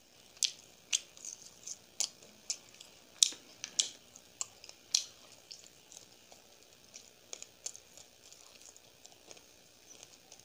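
A person chewing a fried gol pitha close to the microphone, with many sharp wet mouth smacks and clicks, loudest and most frequent in the first half, then settling into quieter chewing.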